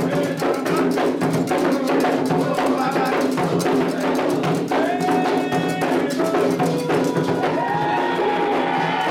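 Candomblé ritual music: atabaque hand drums and struck percussion keep up a fast, steady rhythm while voices sing held, chant-like lines over it.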